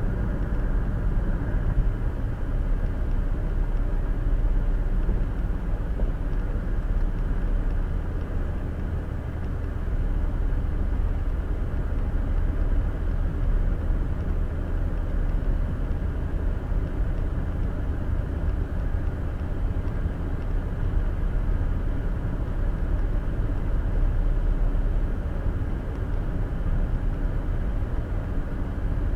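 Steady road and tyre noise with engine hum inside a car cruising at highway speed, picked up by a windshield-mounted dash cam's microphone. Low and even throughout, with no change in pace.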